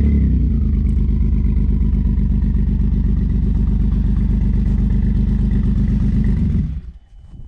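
2010 Ford Taurus SHO's 3.5 L EcoBoost twin-turbo V6 running steadily at low speed, then switched off about six and a half seconds in, the sound cutting off quickly.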